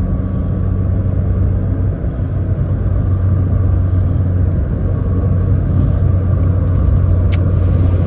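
Cabin sound of a 1987 Toyota AE86 Sprinter Trueno cruising in fifth gear: the steady drone of its 4A-GE twin-cam four-cylinder engine with tyre and road noise over a bumpy road. One sharp click comes near the end.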